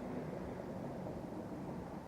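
A car driving at road speed: steady road and engine noise with a low hum.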